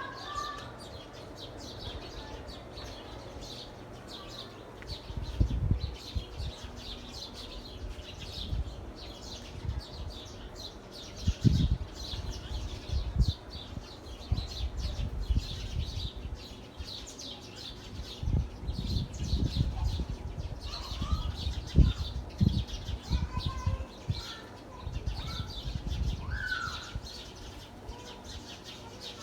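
Many small birds chirping in a dense, continuous chorus of short high chirps, with a few lower calls in the second half. Irregular bursts of low rumble come and go and are the loudest parts, most of all around a third of the way in and again in the middle and later.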